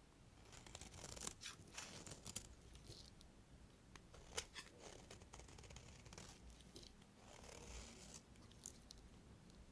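Faint, crisp crackling and scraping of a knife cutting through bars of soap, with a few sharper snaps.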